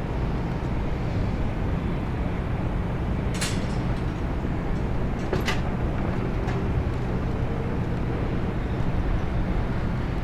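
Steady low engine rumble, with two sharp clicks about three and a half and five and a half seconds in.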